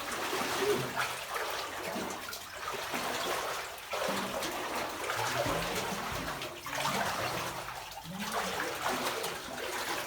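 Legs wading through knee-deep water over mud in a flooded mine tunnel: water sloshes and splashes in repeated swells, one with each stride.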